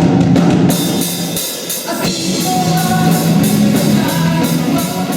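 Rock band playing loud, drum kit with cymbals and guitar, with a steady beat.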